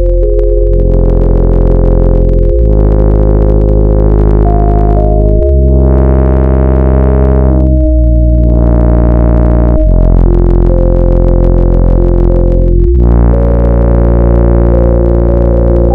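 Layered software synthesizer patch with a deep sub-bass layer playing sustained chords that change every two to three seconds. Key pressure (aftertouch) drives the filter, so each chord brightens as it opens and darkens again as the pressure eases.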